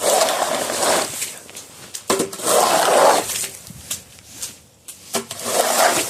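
Snow shovel scraping along a snowy driveway in three strokes of about a second each, roughly every two and a half seconds.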